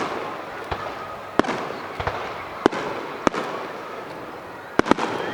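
Aerial fireworks shells bursting: a series of sharp bangs, about seven, with a quick pair near the end, over a continuous haze of further bursts and crackle.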